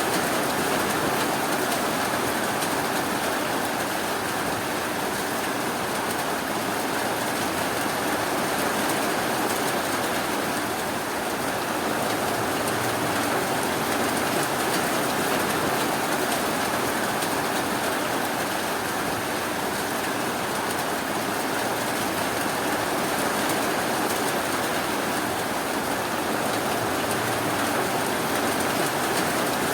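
Steady rainfall, a continuous even hiss of rain with no thunder or breaks.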